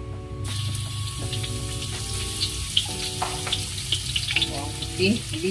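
Chopped shallots hitting hot oil in a wok and sizzling: a frying hiss with scattered pops starts about half a second in and keeps going. Background music plays underneath.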